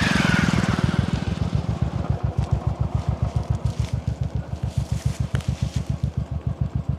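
Single-cylinder 535cc engine of a Royal Enfield Continental GT 535 idling through an aftermarket AEW exhaust: an even, slow thump of about seven beats a second, a little louder in the first second, then steady.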